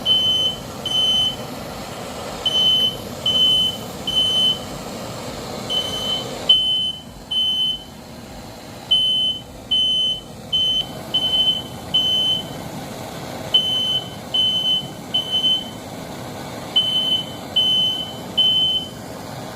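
Alarm beeping in the three-beep pattern of a smoke alarm: a single high beep sounds three times, pauses, and repeats. Under it runs a steady rushing noise that stops for a few seconds partway through and then returns.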